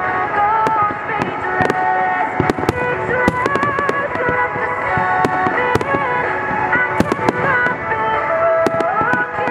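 Aerial fireworks shells bursting in quick, irregular succession, many bangs and crackles. Music with a gliding melody plays under them.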